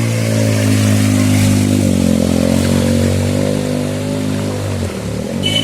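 A motor vehicle engine running steadily close by, over a rushing hiss, its pitch sagging and fading out about five seconds in.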